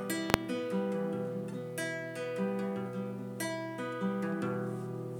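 Acoustic guitar strumming chords, a new chord struck roughly every one and a half seconds, as an instrumental gap between sung lines. A sharp click sounds about a third of a second in.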